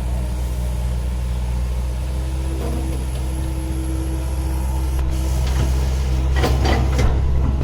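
Komatsu PC160-8LC hydraulic excavator's diesel engine running steadily with a deep low rumble. A few sharp knocks come near the end.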